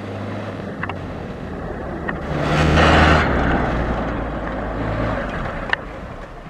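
Rally-raid vehicle's engine passing close by at speed, loudest about three seconds in with a rush of noise as it goes past, then fading away. A sharp click near the end.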